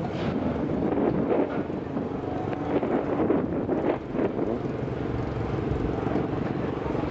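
Car engines running at a drag-strip starting line, with the cars staged and waiting to launch; the level surges briefly a few times. Wind buffets the microphone.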